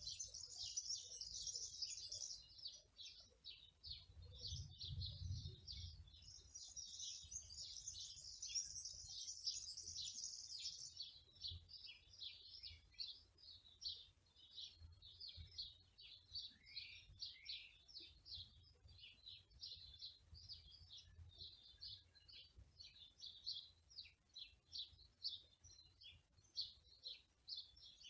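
Small songbirds singing, a rapid stream of high chirps throughout, with longer continuous trills at the start and again from about six to eleven seconds in. A faint low rumble comes about five seconds in.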